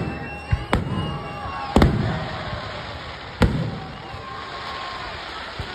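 Aerial fireworks exploding: a string of sharp bangs at uneven intervals, the loudest about two and three and a half seconds in, each followed by a rolling echo.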